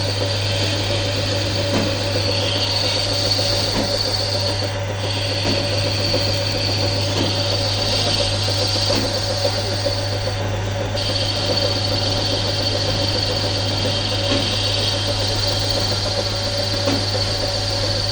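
A workshop machine running steadily, with an even hum and a constant high whine.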